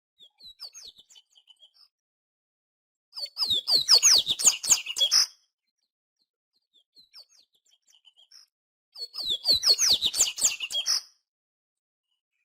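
A papa-capim seedeater singing. There are two bursts of quick, high, sliding notes, each about two seconds long, with faint single chirps in between.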